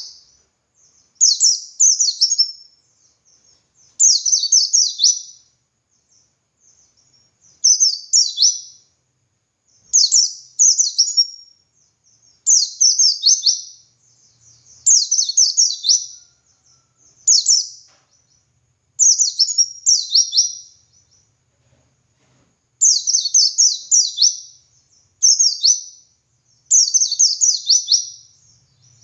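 White-eye (pleci) singing in short, loud bursts of quick, high, falling notes. Each phrase lasts a second or so and they repeat about every two seconds with brief pauses.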